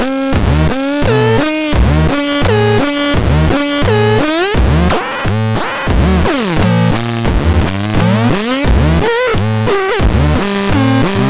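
Experimental electronic synthesizer sounds played in a fast pulsing rhythm, with pitched notes that glide up and down over a chopped bass line, harsh and noisy in places.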